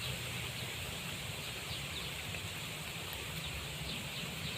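Steady outdoor background noise with a low rumble, and faint brief high chirps every second or so.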